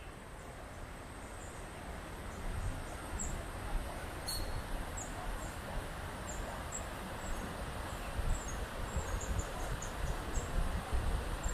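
Outdoor ambience: a steady rushing noise that grows louder, gusty low rumble of wind on the microphone, and many short high chirps scattered throughout.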